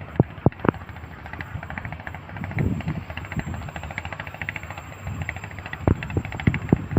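Passenger train passing, its wheels clacking over the rail joints in quick runs of sharp knocks near the start and again near the end, with a steady rolling rumble in between.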